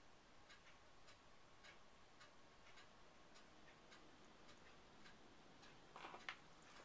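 Near silence with faint, evenly spaced ticking, about two ticks a second, and a brief louder rustle or knock near the end.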